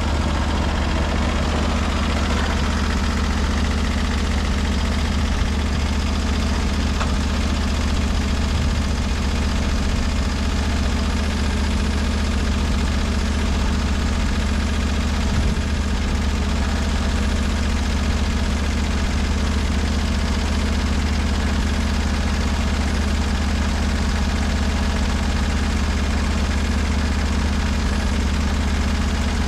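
Portable bandsaw mill's engine running steadily at a constant speed, a low, even hum with no change in pitch or level.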